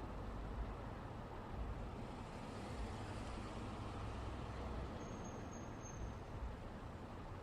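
Road traffic passing steadily: a continuous rumble of engines and tyres, with no single vehicle standing out. Three short, faint high beeps come about five seconds in.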